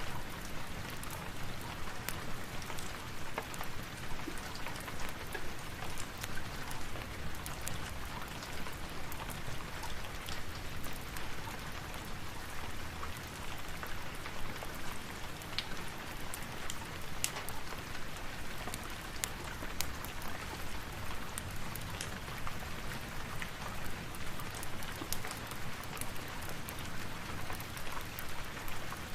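Steady rain falling, with many scattered sharp clicks and ticks throughout.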